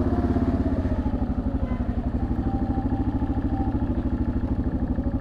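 Motorcycle engine idling with a steady, even pulse, most likely the single-cylinder four-stroke of a 1987 Yamaha Ténéré XT600Z.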